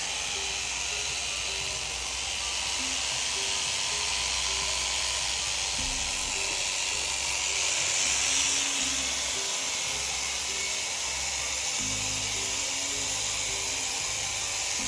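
Electric sheep-shearing handpiece running steadily as its cutter works through the fleece, with a continuous high buzz.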